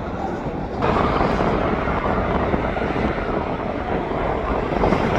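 Steady noise of jet airliner engines, which jumps suddenly louder about a second in.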